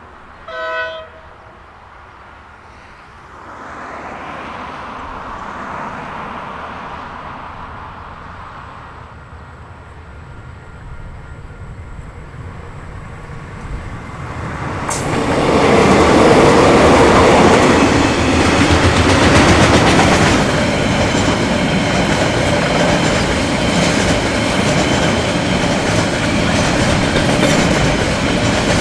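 A train's horn sounds one short blast about half a second in; the train then approaches, and from about halfway it passes loudly and steadily, its wheels running on the rails.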